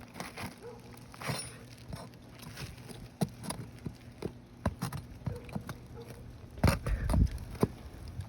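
Steel flat bar prying nails and an old roof shingle loose: irregular clicks, scrapes and knocks, with a louder run of knocks about six and a half seconds in.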